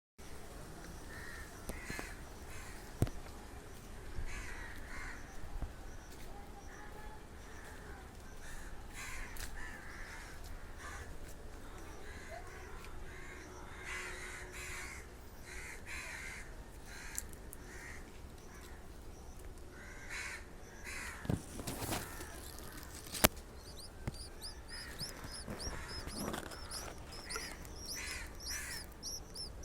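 Birds calling: repeated harsh calls through most of the stretch, with rapid high-pitched chirping joining in near the end.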